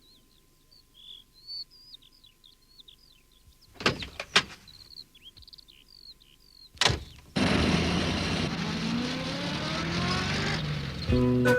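Birds chirping, with a few sharp knocks, then a small van's engine running loudly for about three seconds, its pitch climbing as it accelerates away.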